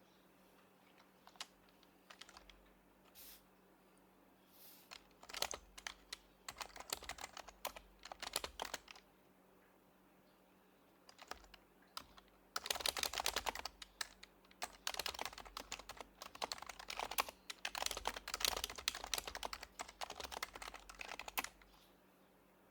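Typing on an HHKB Professional Hybrid Type-S keyboard with silenced Topre switches: a few scattered keystrokes, short runs, a pause, then a long fast run of keystrokes that stops near the end.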